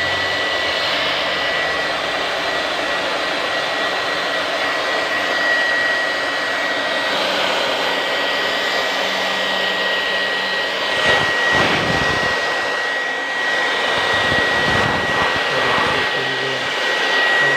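Electric air blower running steadily with a high whine, blowing dust out of an air conditioner outdoor unit. The air rush surges briefly a few times about two-thirds of the way through.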